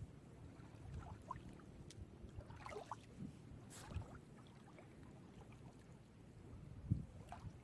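Small sea waves lapping and splashing at the shore, with a low rumble of wind on the microphone. A few faint seagull calls come about a third of the way in.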